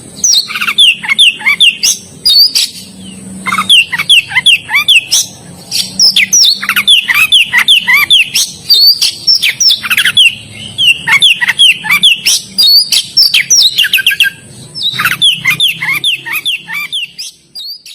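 Oriental magpie-robin (kacer) singing loudly and continuously: a rapid, varied run of whistled notes, many sweeping down in pitch, delivered in phrases with brief pauses. This full, non-stop song is what bird keepers call 'gacor'.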